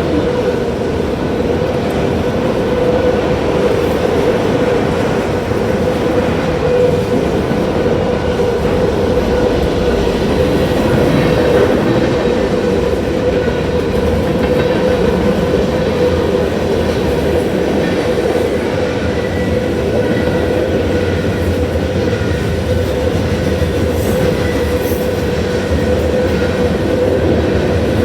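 Freight cars of a Union Pacific mixed freight train rolling steadily past, wheels clacking over the rail joints.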